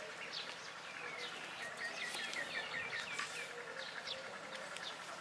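Small birds chirping, with scattered short high calls and a quick run of repeated chirps about two to three seconds in.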